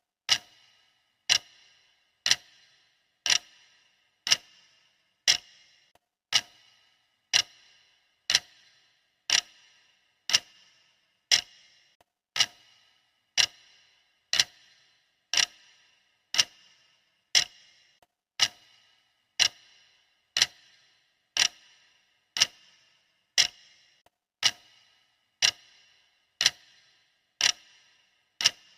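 Clock ticking steadily, one sharp tick a second, each tick with a short bright ring: a countdown timer marking the seconds.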